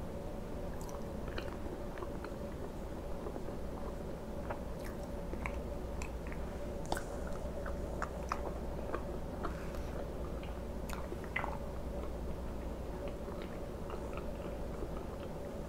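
Close-miked eating: biting and chewing a soft, syrup-soaked fried egg, with many scattered wet mouth clicks and smacks over a steady low hum.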